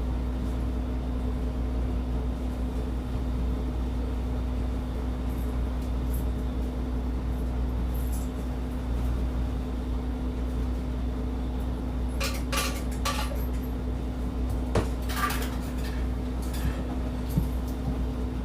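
Steady engine hum heard inside a route bus, with clusters of short clinks and rattles from the cabin about twelve and fifteen seconds in.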